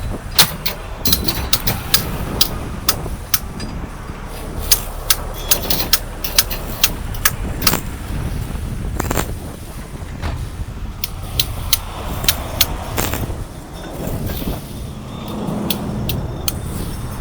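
Sharp, irregular metallic clicks and clanks over a steady low rumble of heavy truck engines. The clicks come thick in the first half and thin out later.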